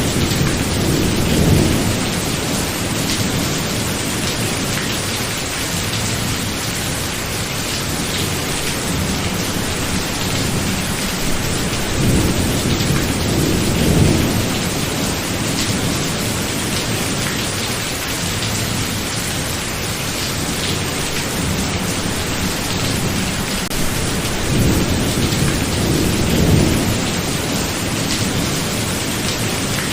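Heavy rain falling steadily in a thunderstorm, with low rolls of thunder swelling up three times: about a second in, near the middle and near the end.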